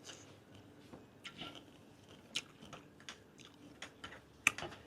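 A person chewing grilled giant octopus tentacle: quiet mouth sounds with scattered short clicks, and a sharper click near the end.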